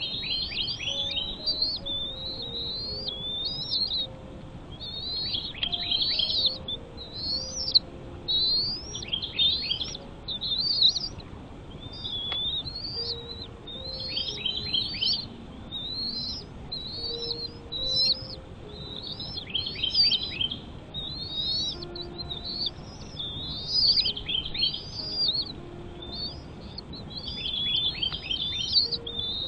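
A bird calling over and over with high chirps, each rising and then breaking into a quick run of falling notes, about one every second or two.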